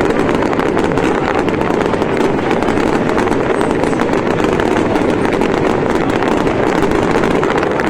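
Fireworks display going off in a dense, continuous barrage: many bangs and crackles following each other too fast to count, blending into one steady wall of sound.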